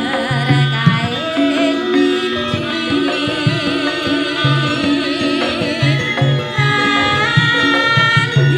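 Javanese gamelan music: hand-drum strokes and steady pitched metal tones under a melody sung with a wavering vibrato.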